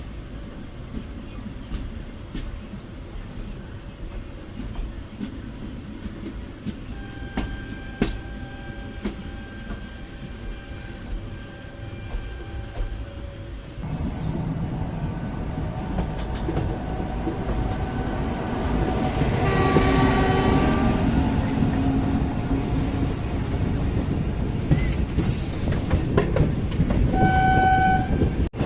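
Passenger train running on the rails, its rumble and wheel noise heard from inside a coach, growing louder about halfway through as it picks up. A train horn sounds for about two seconds some two-thirds of the way in, and a short high tone follows near the end.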